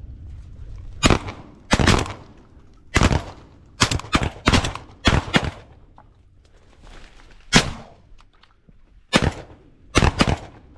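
A volley of gunshots from several hunters' guns firing at once: about eighteen shots in quick, overlapping runs, with a short lull in the middle before the firing picks up again.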